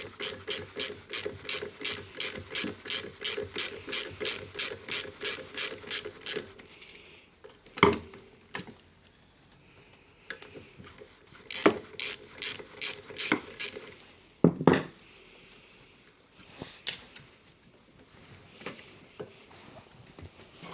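Socket-wrench ratchet clicking rapidly, about four clicks a second, as 10mm nuts are undone on a lawnmower. It stops about six seconds in, followed by a few separate knocks of the tool or parts.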